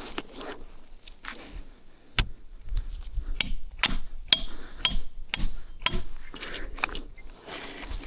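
A tool striking something hard over and over: about eight sharp knocks, roughly two a second, some with a slight metallic ring.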